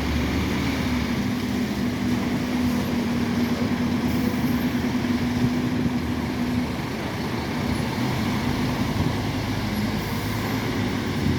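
Diesel engine of a Scania N270UD OmniCity double-deck bus running with a steady low drone. The drone drops away about two-thirds of the way through, leaving a general traffic rumble.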